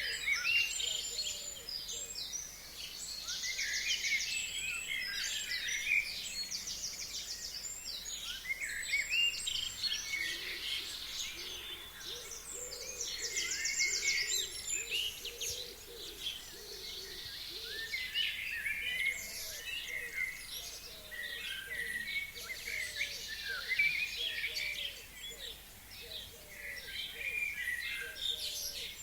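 A chorus of forest birds singing in spring: many overlapping chirps, whistles and fast trills, with a lower repeated call underneath for a stretch in the middle.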